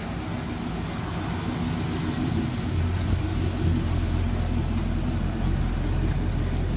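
A car engine running steadily, its low hum getting a little louder about three seconds in.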